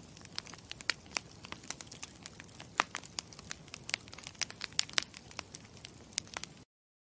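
Campfire crackling: a steady low hiss with many sharp, irregular pops and snaps, some loud. It cuts off abruptly to silence near the end.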